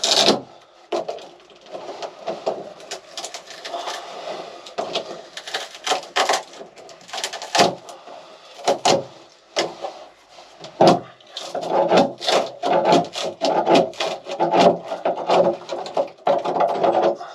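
Wooden interior fittings of a small sailing boat being wrenched and prised loose: the wood creaks and scrapes, with many sharp knocks and cracks, the creaking densest near the end.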